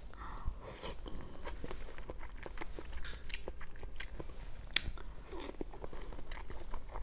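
Macarons being bitten off a skewer and chewed: soft crunching of the shells with many small clicks, and one sharper crunch about five seconds in.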